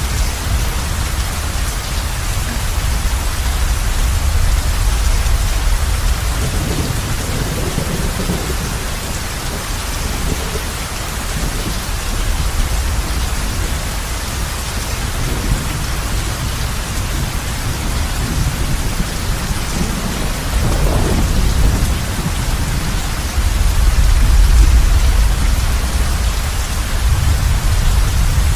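Heavy rain falling steadily on a roof, with low thunder rumbling underneath and swelling loudest near the end.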